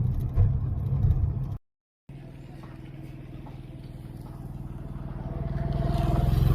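Motor vehicle engine running with a low, even hum, broken by two brief cuts to silence. After the second cut it grows steadily louder over several seconds.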